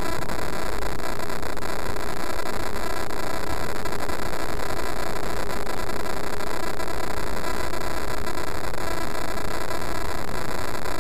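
Steady, loud static-like hiss with no distinct events.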